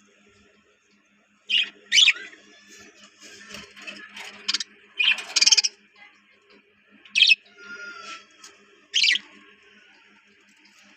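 Budgerigars chirping and calling, a series of short, sharp, loud calls starting about a second and a half in, over a faint steady low hum.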